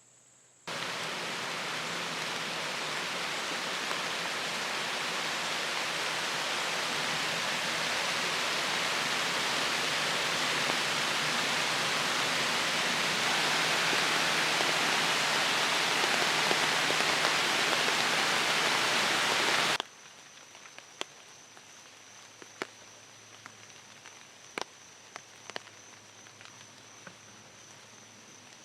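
Heavy rain pouring down in a steady downpour, which cuts in suddenly about a second in and stops abruptly about twenty seconds in. After it, the woods are much quieter, with scattered sharp ticks and a thin steady high tone.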